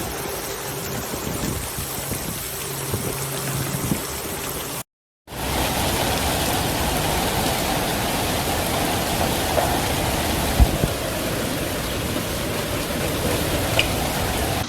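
Heavy rain falling, a steady dense hiss of water. It breaks off for a split second about five seconds in and comes back louder.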